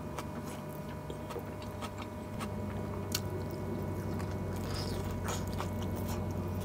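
Close-up chewing and mouth sounds of someone eating a mouthful of rice by hand, with scattered small wet clicks. A steady low hum runs underneath.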